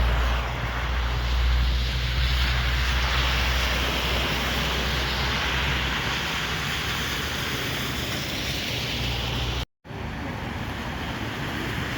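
Street traffic noise: a heavy road vehicle's engine rumbling close by, fading about halfway through, over a steady traffic hiss and wind on the microphone. The sound drops out for a moment near the end.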